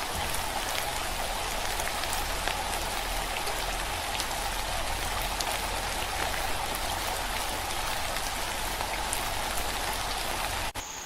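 Steady rain: an even hiss of falling water with scattered drop ticks, which cuts off suddenly near the end.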